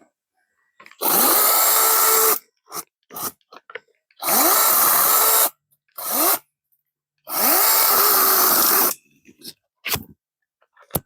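Power saw run in three bursts of about a second and a half, its motor spinning up with a quickly rising pitch each time and stopping between bursts.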